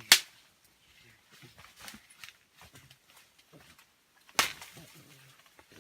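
Two sharp cracks about four seconds apart, the first the louder, with faint short low grunts between them.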